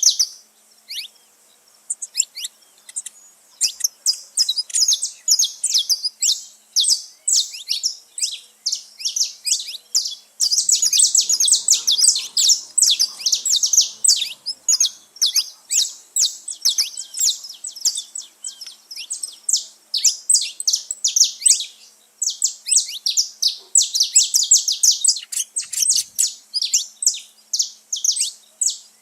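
Saffron finches chirping and singing: rapid series of short, high notes, at times overlapping densely as several birds call at once, with a short lull about a second in.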